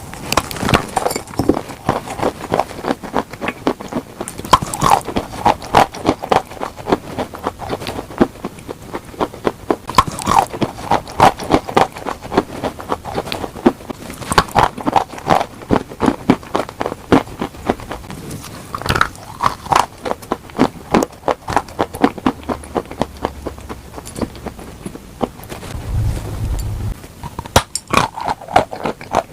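Close-miked crunching of crunchy food being bitten and chewed, in repeated bursts of dense crackly crunches every few seconds.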